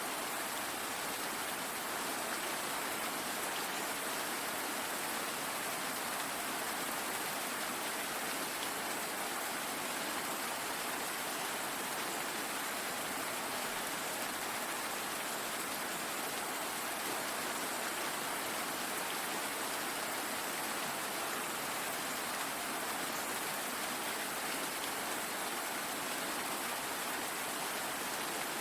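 Steady rain falling, an even hiss of drops without any change or break.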